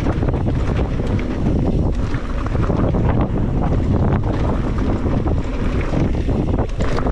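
Wind buffeting an action camera's microphone while riding an electric mountain bike down a dirt trail, with tyre noise and scattered knocks and rattles from the bike over bumps.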